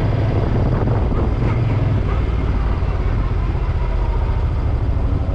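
Suzuki M50 motorcycle's V-twin engine running with a steady low throb.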